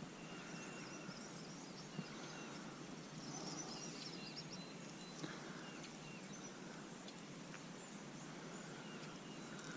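Faint outdoor ambience: a steady low hiss with birds chirping, many short high calls scattered throughout. Two small clicks stand out, about two and five seconds in.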